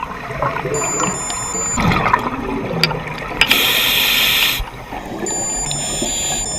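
Scuba regulator breathing underwater: one inhalation hiss lasting about a second, with gurgling exhaust bubbles.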